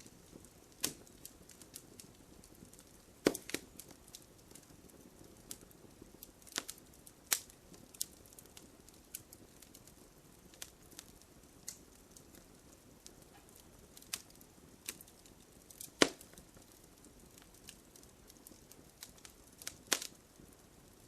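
Wood fire crackling: irregular sharp pops and snaps over a faint hiss, the loudest pops about three seconds in and about sixteen seconds in.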